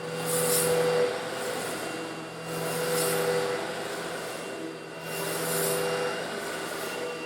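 Old Eureka vacuum cleaner running with a steady motor hum while sucking up coarse stone granules. A hissing rattle of grit swells in louder about every two and a half seconds.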